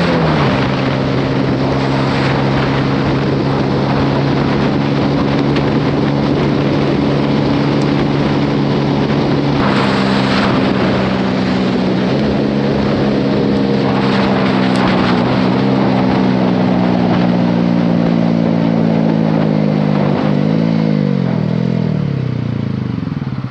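Honda CB125R single-cylinder engine through a Leovince LV10 exhaust, running steadily at road speed under a constant rushing noise. Near the end the engine note falls steadily as the bike brakes hard on a wet road.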